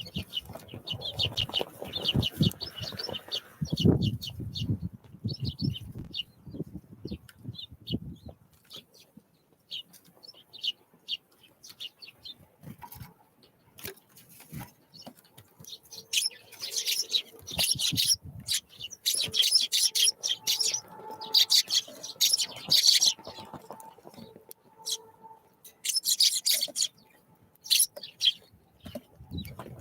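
Small wild birds at a winter feeder giving short, high chirping calls, with several loud bursts of rustling noise in the second half.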